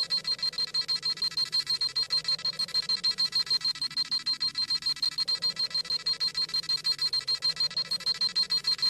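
Dragon Ball Z scouter sound effect: rapid, high-pitched electronic beeping at about six beeps a second, the device scanning a power level.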